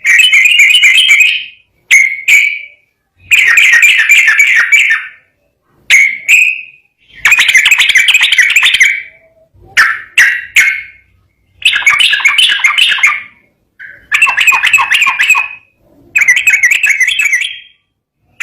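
Yellow-vented bulbul (trucukan) singing: loud, bubbly warbling phrases of one to two seconds each, repeated about every two seconds with short gaps between them.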